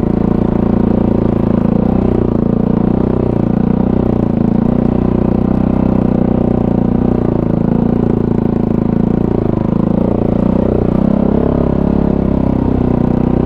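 Kawasaki KFX450R ATV's single-cylinder four-stroke engine running at low, steady throttle, its pitch rising and falling gently with small throttle changes.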